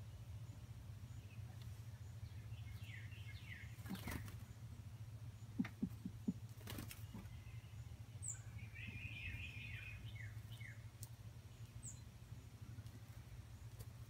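A small bird's wings flapping in a quick run of four beats about halfway through as it flies off. Short chirping bird calls come in two quick series, with two brief high chirps, over a steady low hum.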